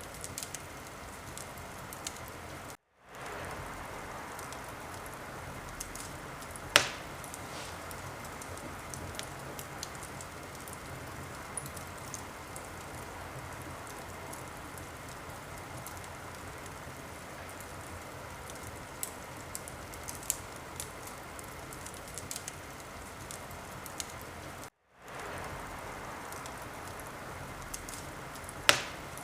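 Wood fire crackling in a fireplace: a steady hiss dotted with small crackles, with two loud sharp pops, one about a quarter of the way in and one near the end. The sound cuts out for a moment twice.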